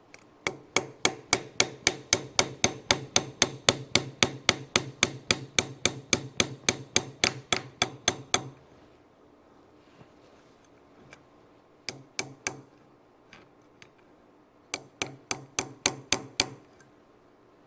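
Hammer tapping on metal in quick, even blows, about five a second for some eight seconds, then three more blows and a final run of taps, each with a short metallic ring. The tapping is driving a rod back out of a home-made hose-clamp tool.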